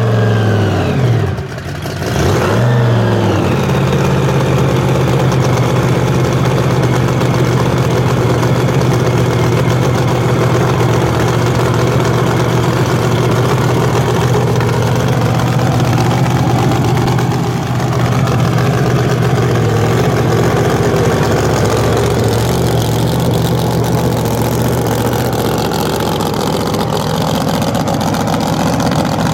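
V8 muscle car engine revving and dropping back, blipped once more about two seconds in, then running steadily at an even speed.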